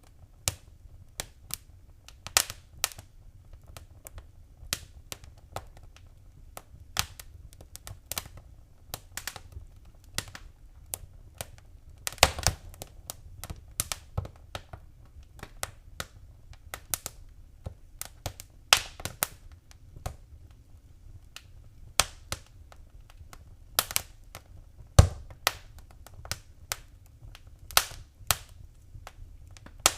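Wood fire crackling in a fireplace: irregular sharp snaps and pops, a few of them louder, over a soft low rumble of the flames.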